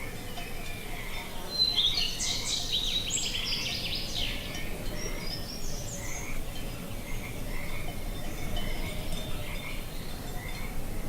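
Outdoor nature ambience of small animal calls: short chirps repeating every second or so, with a burst of fast trilling song from about two to four and a half seconds in, over a low rumble of wind.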